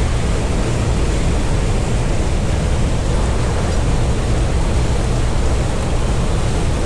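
Loud, steady rush of falling water from a canyon waterfall.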